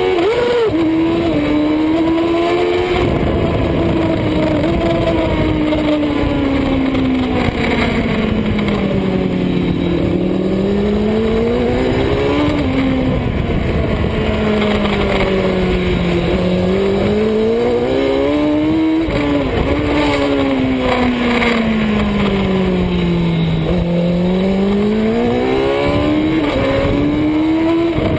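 Superbike engine running hard on track, its pitch climbing and falling in long sweeps every six or seven seconds as the bike accelerates and slows for corners, with brief jumps in pitch at the shifts.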